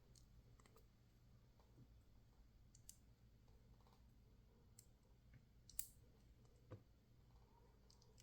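Faint, scattered metal clicks and ticks from small tools and lock parts being handled while a dimple lock is taken apart to remove its pins and springs. The sharpest click comes about two-thirds of the way through.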